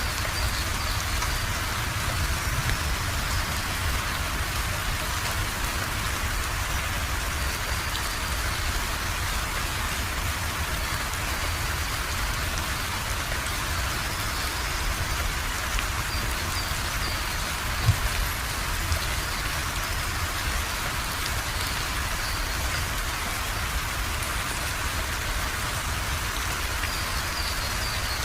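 Steady heavy rain falling and pattering on surfaces, with a low rumble underneath. A single brief thump stands out about two-thirds of the way through.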